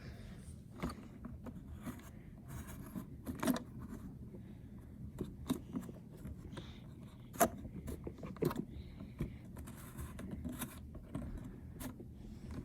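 A plastic toy garbage truck being handled: scattered clicks, taps and scrapes of its plastic parts being worked, with the sharpest knock about seven seconds in. A part meant to fold out is not folding out.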